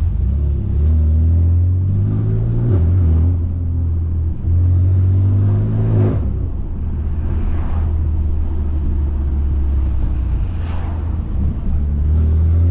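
BMW S55 twin-turbo 3.0-litre inline-six through catless downpipes and an open valved axle-back exhaust, accelerating: a deep drone whose note rises and then drops twice at upshifts.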